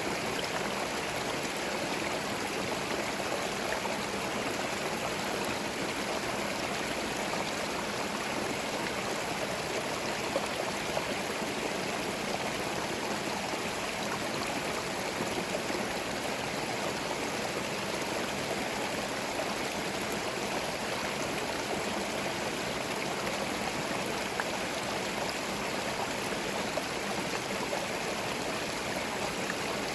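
Forest stream flowing over stones, a steady rush of water with gurgling.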